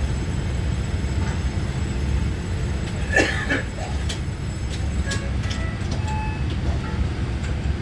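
Interior ride noise of a Taiwan Railway EMU900-series electric multiple unit under way: a steady low rumble of wheels on track, with a brief high squeal and clicks about three seconds in.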